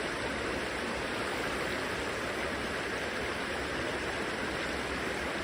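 Mountain stream water rushing, a steady even noise.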